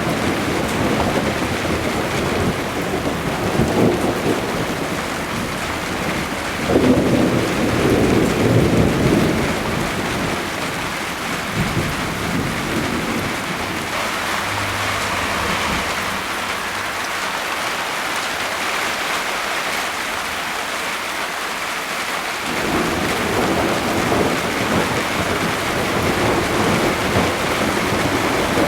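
Thunderstorm: steady rain hissing, with rolling thunder. The loudest rumble comes about a quarter of the way in. The thunder fades in the middle, then a low rumble starts up again suddenly about three quarters of the way through.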